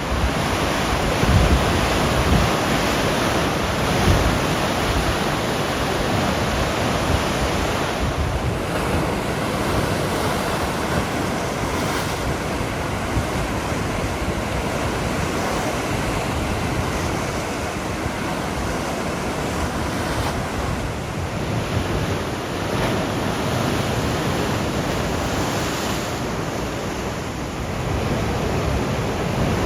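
Sea surf washing and breaking steadily on the shore, with gusts of wind rumbling on the microphone.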